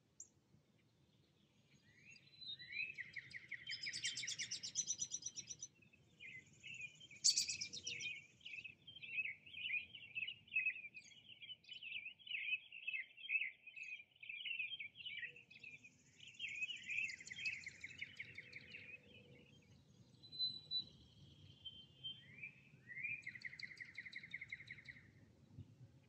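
Songbirds singing in a woodland. A trill that opens with a quick upward sweep comes three times, a long run of rapid chattering notes fills the middle, and thin high notes are mixed in.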